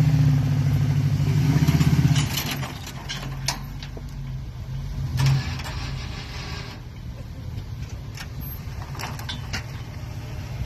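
Truck engine running under load for about two seconds, then dropping back to a lower steady run, with scattered clicks and knocks and a brief swell of engine noise about halfway through.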